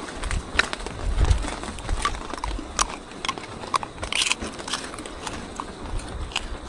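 Wind buffeting the microphone in low rumbling gusts, strongest about a second in, with scattered crackling clicks throughout.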